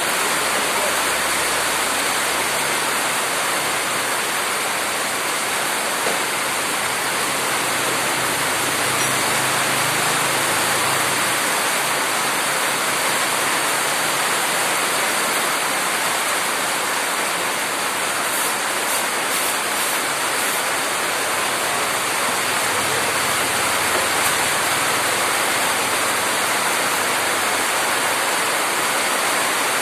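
Heavy rain pouring steadily, a dense even hiss without letup.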